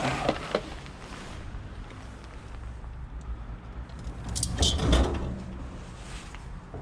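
A car engine idling in the background, with scrap being handled: a few knocks at the start and a louder clattering rattle with a brief metallic ring about four to five seconds in.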